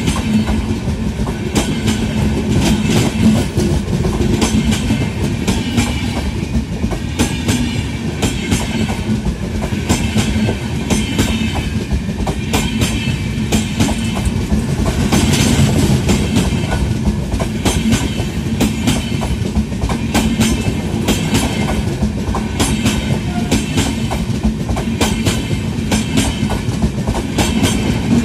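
Passenger train coaches running past close by: a steady rumble, with groups of wheel clicks clattering over the rail joints again and again.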